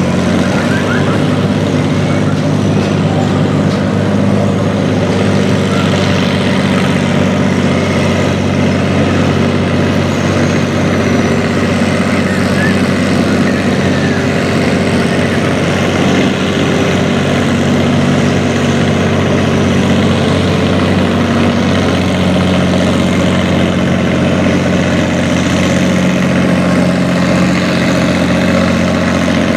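Farm tractor engine running at a steady speed, a loud, even drone with no revving up or down.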